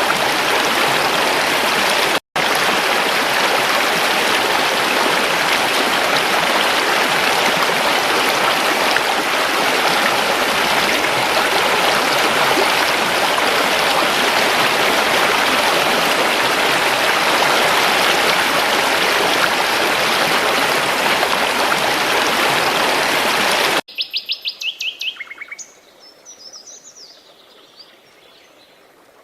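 A creek's rushing water, steady and loud, drops out for an instant about two seconds in. Near the end it cuts off suddenly, leaving birds chirping: a quick run of repeated notes, then fainter scattered calls.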